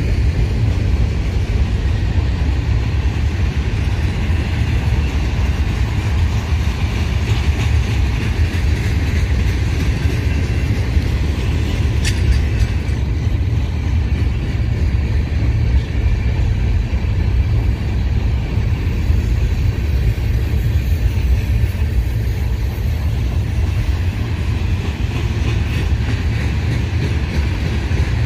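Freight cars rolling past on the track: a steady, loud rumble of wheels on rail, with one brief sharp sound about twelve seconds in.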